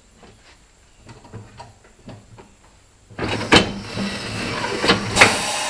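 Tractor tire being worked onto its rim on a tire changer: light knocks and taps at first, then about three seconds in a loud steady rushing noise starts suddenly, with a few sharp cracks over it.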